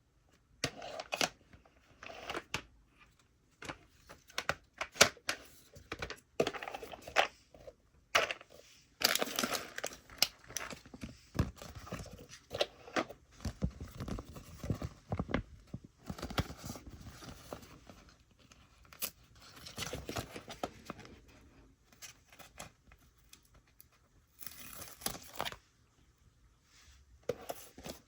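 Toy packaging being handled and opened: irregular tearing and crinkling, with small clicks and rustles coming in bursts, busiest through the middle.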